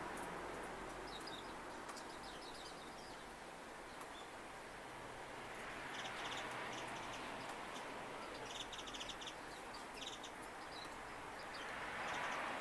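Small garden birds giving short, high chirping calls in a few brief clusters, over a steady background hiss.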